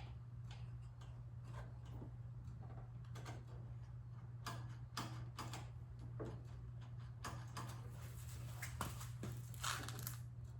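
Scattered light clicks and taps of hands handling tools and parts on a small snowblower engine during setup for a compression test, over a steady low hum.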